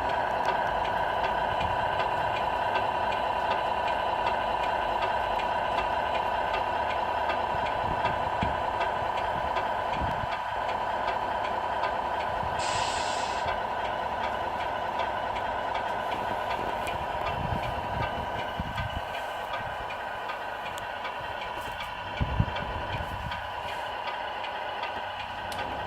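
RC Scania R470 model truck running steadily, with a constant tone and fast, even ticking. A short hiss comes about 13 seconds in and a brief knock about 22 seconds in.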